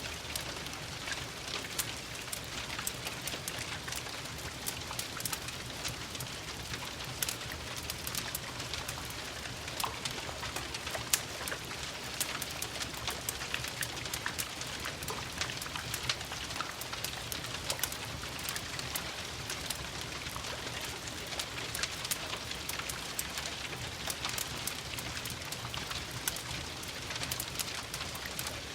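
Steady gentle rain mixed with a crackling wood fire: an even hiss of rain under many small, sharp, irregular pops and crackles.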